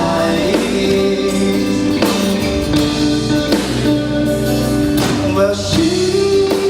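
Live pop-rock band playing an instrumental passage: guitar chords over bass and drums, filled out with sustained tones.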